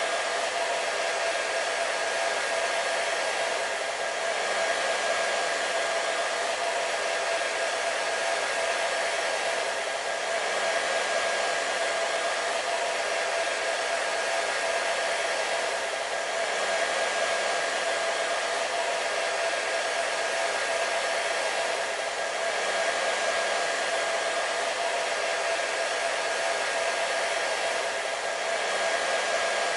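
A hair dryer running steadily: a constant rush of air with a fixed motor whine in it, swelling slightly about every six seconds.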